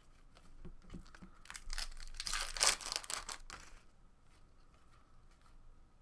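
A few light handling clicks, then a Topps baseball card pack's wrapper is torn open and crinkled for about two seconds.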